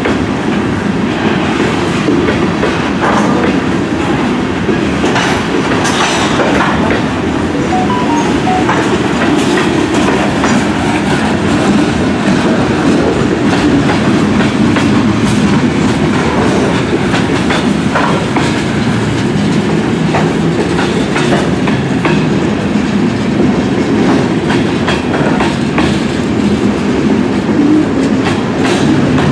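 Heavily loaded freight cars of a long Kansas City Southern train rolling steadily past: a continuous loud rumble of wheels on rail with repeated clicks as the wheels cross rail joints.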